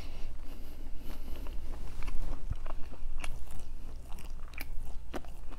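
A man chewing a mouthful of pizza close to the microphone, with irregular wet mouth clicks, smacks and a little crunching.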